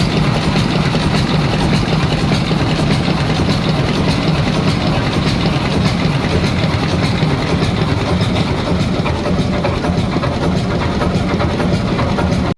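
A large engine running steadily, with a dense mechanical clatter.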